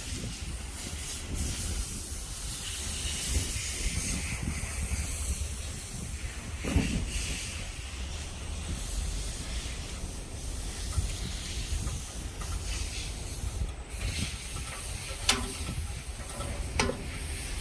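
Wood fire burning in a wood stove: a steady hiss over a low rumble, with a few sharp crackles, two of them near the end.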